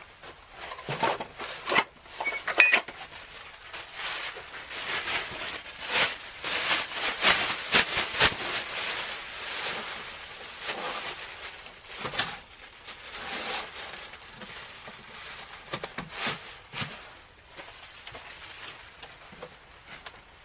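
Irregular rustling with scattered sharp clicks and light knocks, like objects being handled and set down, loudest between about two and nine seconds in.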